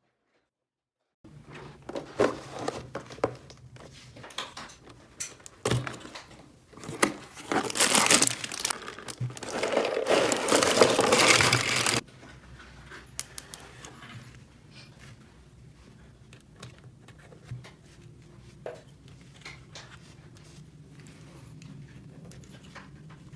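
Crinkling and rustling of material being handled, with many small clicks, loudest for about five seconds in the middle and stopping abruptly, followed by quieter scattered taps and clicks.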